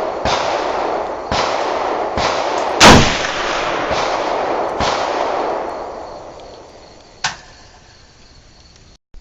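Gunshots on an outdoor range: about five shots in the first five seconds, the loudest about three seconds in, with a rushing echo between them. The echo fades out, and one fainter shot follows near the end.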